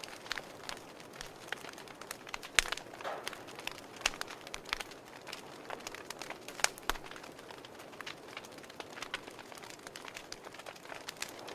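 Fire crackling: irregular sharp pops and snaps over a soft steady hiss, with a few louder pops about two and a half and near seven seconds in.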